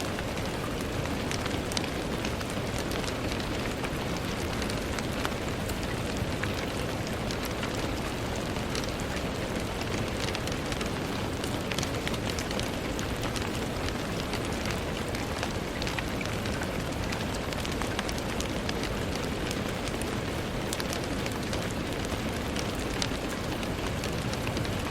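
Steady rain with many small drops ticking and pattering on a window pane, over a constant low rush of rainfall.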